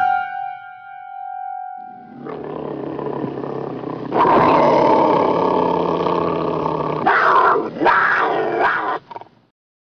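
Dubbed-in animal roar sound effect: a long growling roar that starts about two seconds in, grows loudest from about four seconds and stops about nine seconds in. It is preceded by a sudden ringing tone at the very start.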